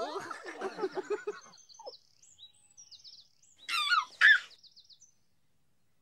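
Birdsong: a run of quick, high chirps, with a louder warbling call about four seconds in. Voices trail off in the first second.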